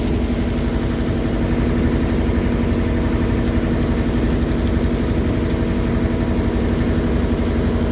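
River boat's engine running steadily, an even drone with a constant pitch.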